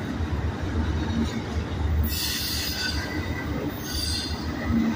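Double-stack intermodal well cars rolling past with a steady low rumble. Wheels give two high squeals, one about two seconds in and a shorter one near four seconds.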